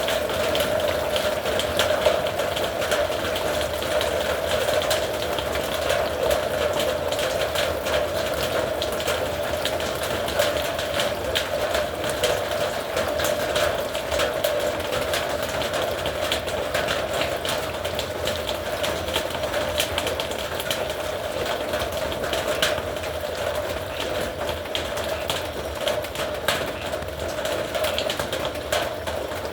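Heavy rain falling on a metal roof: a dense, steady patter of drops, with a constant tone running underneath.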